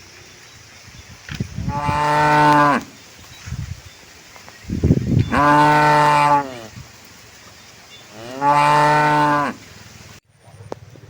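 A cow mooing three times, each moo lasting about a second and a half, its pitch rising at the start and dropping away at the end.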